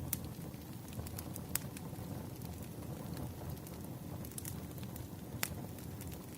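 Wood fire burning with a low steady rumble and irregular sharp crackles and pops of burning firewood, the loudest just after the start, about a second and a half in, and near the end.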